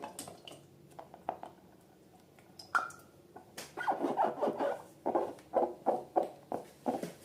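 Slime being squeezed and worked by hand, with sticky clicks and squelches. About halfway in they turn into a quick run of repeated squelches.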